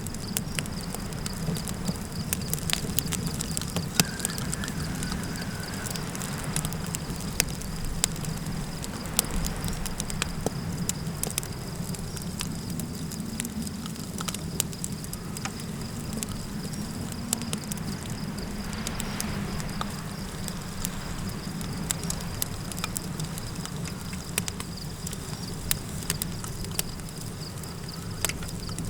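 Campfire crackling, with many irregular sharp pops and snaps, over a steady low rumble of night wind. A thin, steady high-pitched insect drone runs underneath.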